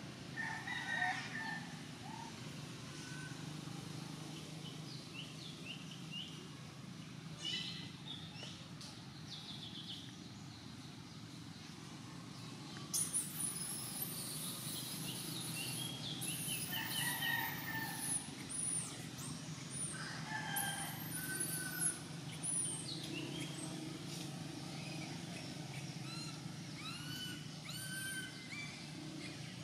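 Birds calling in the forest: many short, repeated arched chirps and whistles, some high and thin, busiest in the second half, over a steady low background hum.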